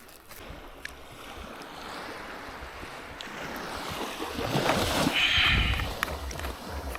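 Water splashing and sloshing, growing louder about halfway through, with a low wind rumble on the microphone.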